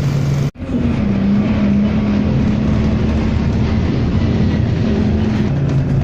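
Steady, loud low engine rumble with a humming tone, starting after a brief dropout about half a second in.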